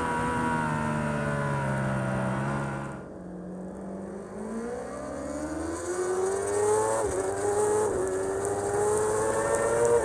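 Race superbike engine heard from onboard: the engine note falls as the rider shuts off, drops quieter for a moment about three seconds in, then climbs steadily under acceleration, with two quick upshifts in the second half.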